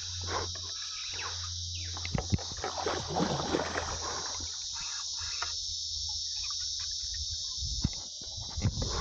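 Steady high-pitched chorus of insects. Between about two and four seconds in, irregular clicks and rustling come over it.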